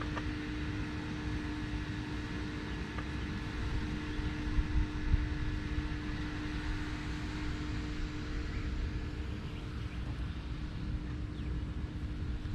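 Steady machine hum with a constant low tone over a low rumble.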